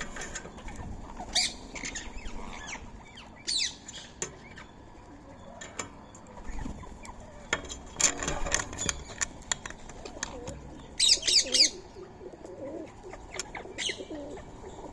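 Indian ringneck parakeets and other birds at a feeding spot: wings flapping, scattered sharp clicks, and short bursts of rapid, harsh calls, the loudest about two-thirds of the way through.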